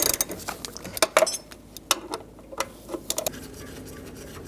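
Irregular metallic clicks and clinks of a socket wrench with a 10mm socket working on a truck door hinge's bolts, with a quick run of clicks about three seconds in.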